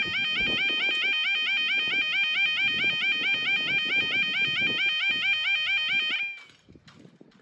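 Newly installed level crossing warning alarm sounding a rapid, evenly warbling two-tone yodel, then cutting off abruptly near the end. To the listener on site it already sounds as if it is failing.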